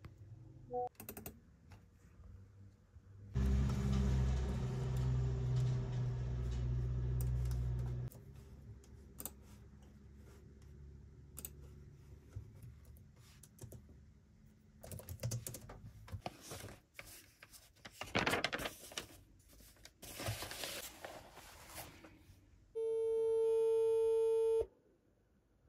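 A run of small clicks and handling noises, with a low steady hum for about four seconds early on, and a steady electronic beep held for nearly two seconds near the end.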